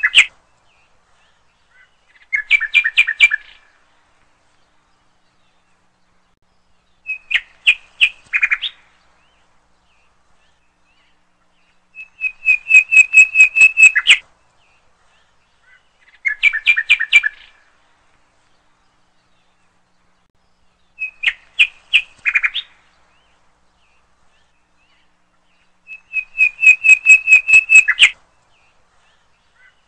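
Bird song in short separate phrases every four or five seconds: a two-second trill of quick, high chirps, then shorter phrases of a few chirps each. The same sequence of phrases repeats about every 14 seconds.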